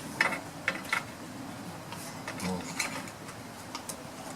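Scattered metallic clicks and clinks of a hand tool, a 5/16 wrench or socket, being worked against a bolt on a small engine in a tight spot.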